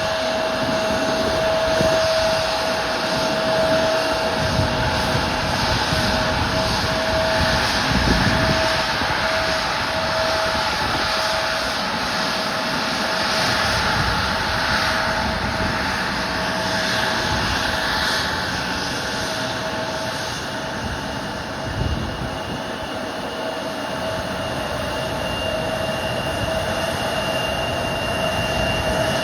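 Turbofan engines of an Embraer E-Jet regional airliner running steadily at low power: a constant whine over a broad rushing noise, with a higher tone creeping upward near the end and a few low thumps.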